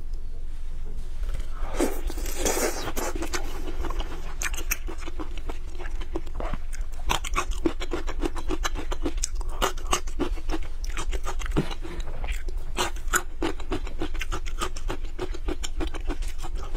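Close-miked eating of a peeled cooked shrimp: wet chewing with many sharp mouth clicks and smacks, the densest crackle about two seconds in.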